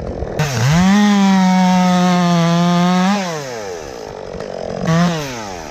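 Two-stroke chainsaw revved to full throttle. It holds steady for about two and a half seconds, drops back to idle, then gives one short blip of the throttle near the end.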